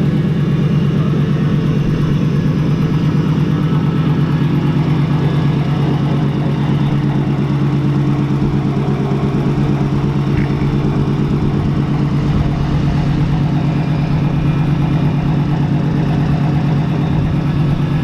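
A car engine running loud and steady at a constant speed. Its even drone starts and stops abruptly.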